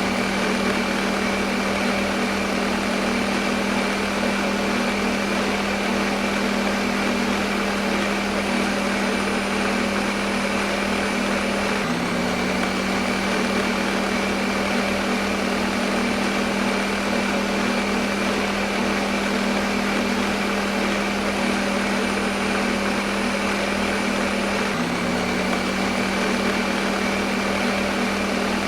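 Electric kitchen blender running continuously, a steady motor hum over an even whirring hiss. The hum gives a small jump about every 13 seconds.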